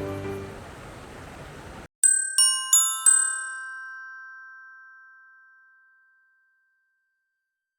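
Background music fading out, then after a short gap a four-note bell-like chime, like a glockenspiel: four quick struck notes that ring on and die away over a few seconds.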